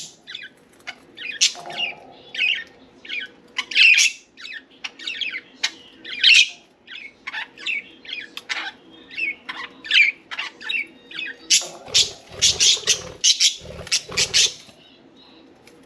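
Budgerigars chirping and chattering in a rapid string of short calls, rising to a louder burst of squawky calls about twelve seconds in that stops near the end. A faint steady hum runs beneath.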